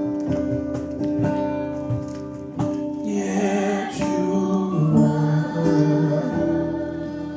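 Live slow worship song: instruments with guitar hold chords under a singer's drawn-out, wordless notes that bend in pitch.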